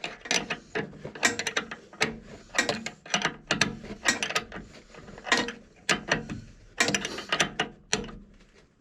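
Ratchet wrench clicking in quick irregular runs of strokes, tightening battery cable connections.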